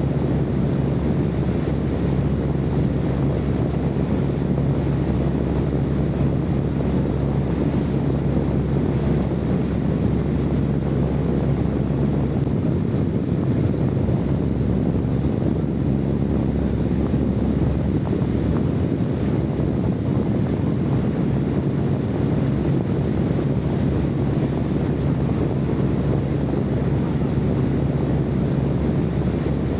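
Steady, unchanging low rumbling noise with a constant low hum running through it, recorded live as sleep noise.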